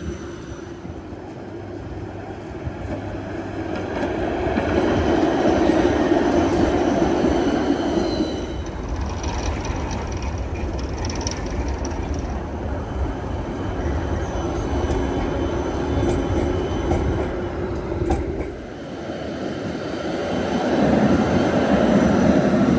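Helsinki tram running on its rails: a continuous rolling rumble with faint high wheel tones. It grows louder about five seconds in, eases off, and swells again near the end.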